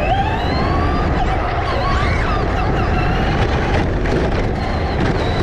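Electric RC car motor whining, its pitch gliding up and down as the car speeds up and slows, over a steady low rumble.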